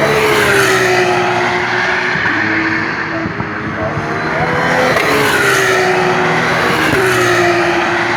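Formula 2 cars' turbocharged V6 race engines passing at speed, their pitch dropping as they go by. There are two loud passes, one right at the start and another about five seconds in, with engine note climbing in between.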